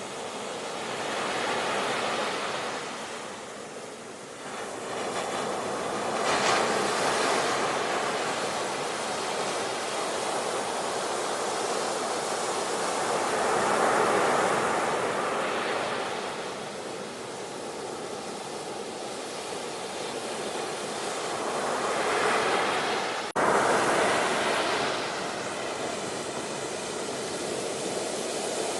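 Ocean surf: waves breaking and washing in, the sound swelling and easing as each wave comes in. There is a sudden brief break in the sound about 23 seconds in.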